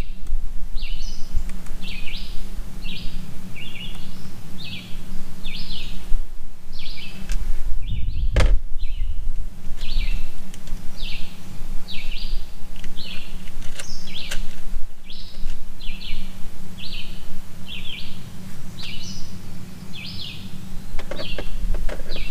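A small songbird chirping over and over, a little more than once a second, over a steady low rumble; one sharp knock about eight seconds in.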